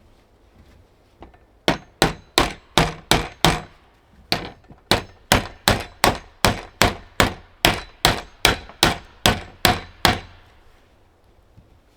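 A hammer striking in a steady rhythm, about three ringing, metallic blows a second: a short run of about six, a brief pause, then a longer run of about eighteen.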